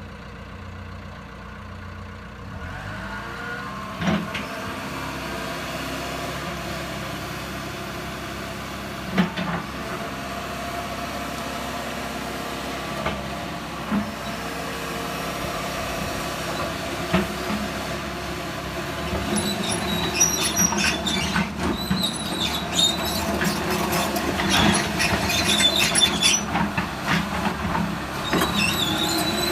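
Diesel engine of a John Deere 160G LC excavator running steadily, picking up slightly a couple of seconds in, with single metallic clunks every few seconds. In the second half, squeals and rattling from the machine as it works come in and grow louder.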